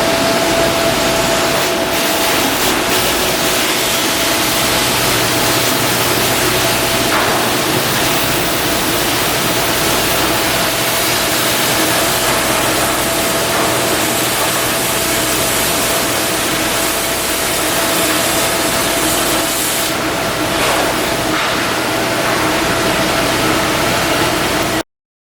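Steady noise of shipyard work: a continuous hiss with a faint steady whine and a few sharp ticks. It cuts out abruptly near the end.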